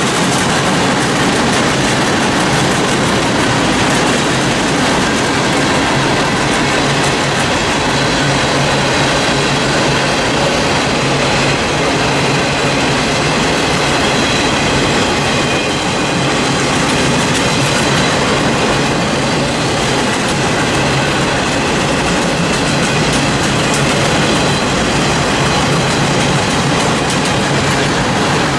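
Railroad cars of a passing train rolling by at close range: a steady loud rumble and clatter of steel wheels on the rails.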